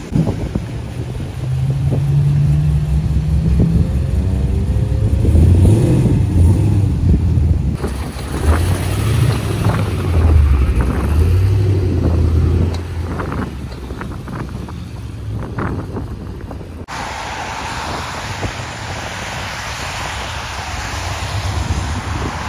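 Car engine running and revving, its low note stepping up and down for the first half or so, over a rumble of wind on the microphone. It gives way to a steady rushing wind noise.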